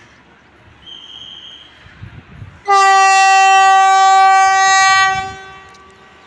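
Vande Bharat Express train horn sounding one long, steady blast of about two and a half seconds, starting sharply and fading away at the end.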